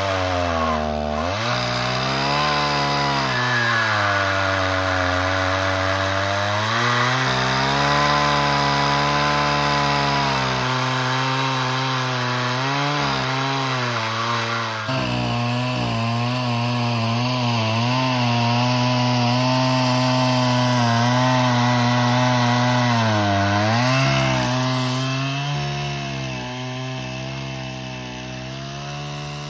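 Portable sawmill's small engine running hard as it cuts through a log, its pitch sagging and recovering again and again under the load of the cut. It fades away near the end.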